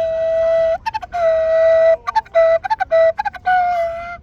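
Wooden duct flute (fipple flute) playing a melody: long held notes on one pitch broken by quick, tongued short notes a little higher.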